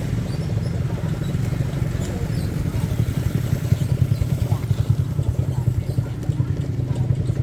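Small motorbike engine running steadily, with a continuous low, fast-pulsing hum.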